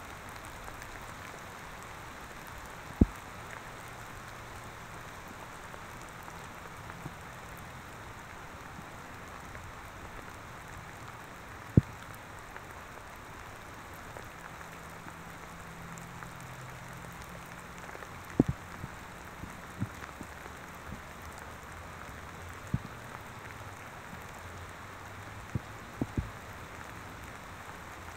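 Steady rain hiss, with sharp, loud clicks at irregular intervals where raindrops strike the external microphone, about nine of them, most in the second half.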